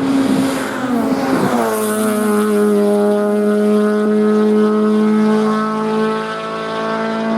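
Race car engine running hard on a hillclimb run. Its pitch drops sharply about a second and a half in, as on a gear change or lifting off, then holds steady at high revs.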